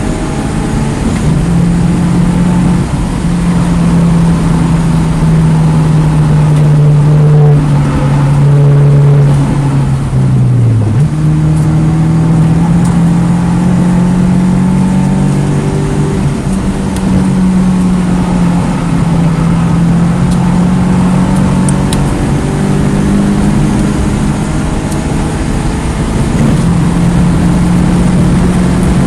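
2009 Mini Cooper S's turbocharged 1.6-litre four-cylinder engine running hard on a track lap, its pitch held fairly level with small shifts; about eleven seconds in the pitch drops sharply, then climbs again as the car accelerates.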